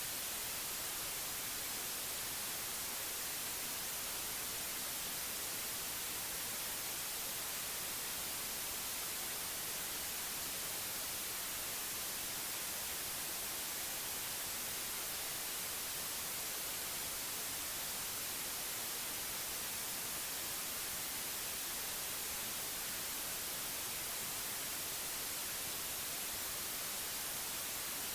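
Steady electronic white noise: an even, unchanging hiss spread across all pitches, brightest in the high end.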